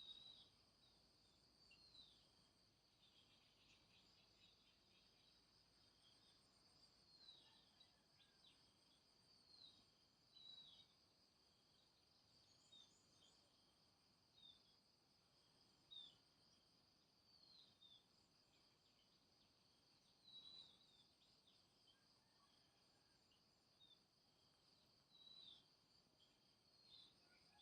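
Faint outdoor nature ambience: a steady, high insect chorus of crickets or cicadas, with short bird chirps repeating every second or two.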